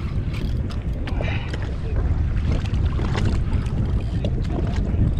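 Wind buffeting the microphone on a kayak at sea as a steady low rumble, with scattered small splashes and clicks of water against the hull.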